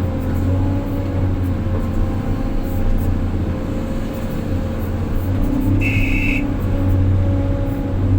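Heavy diesel engine of earthmoving machinery running steadily with a deep hum. A short, high electronic beep sounds once, about six seconds in.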